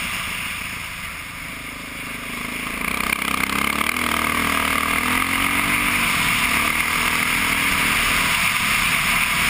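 Honda XR650R single-cylinder four-stroke dirt bike engine running while riding on a gravel road. It backs off about a second in, then picks up again from about three seconds in and holds steady under throttle.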